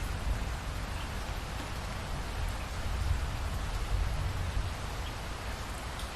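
Steady rain falling, a dense even hiss of drops, under a low rumble that swells slightly in the middle.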